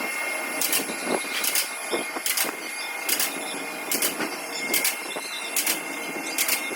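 Car floor jack being pumped by its handle to lift the car, each stroke giving a short metallic click or squeak, about one every 0.8 seconds.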